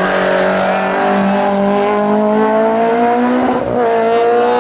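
Race car engine at full throttle, its pitch climbing steadily as it accelerates uphill, with a brief break in the note about three and a half seconds in as it changes gear.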